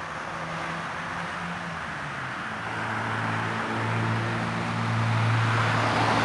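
A low, steady engine hum over a constant hiss, growing louder from about two and a half seconds in.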